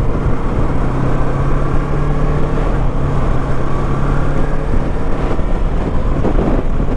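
Motorcycle engine running at a steady pitch with road noise, picked up on the rider's own microphone.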